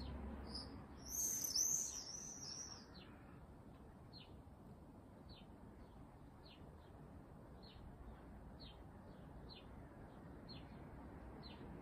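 A bird singing: a short burst of high warbling notes about one to three seconds in, then a steady series of short, repeated chirps, roughly one or two a second.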